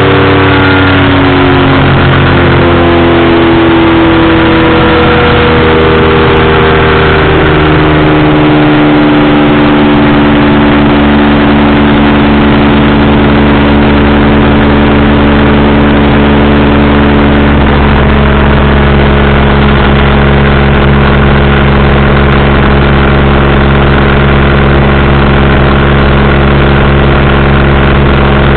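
Powered parachute engine and propeller running loud and close, its pitch falling over the first eight seconds or so as the throttle comes back, then running steadily at low speed.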